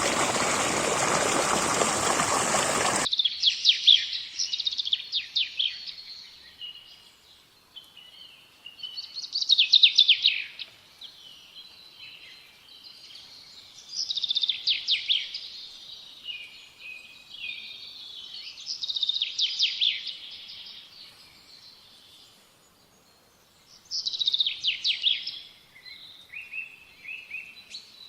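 Rushing stream water for about three seconds, cutting off abruptly, then a songbird singing. The bird sings a short phrase of rapid high notes roughly every five seconds, about six times.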